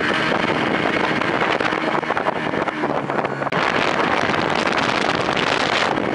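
Motorboat engine running with a loud, steady rush of wind and water noise over the microphone; the rush grows brighter about three and a half seconds in.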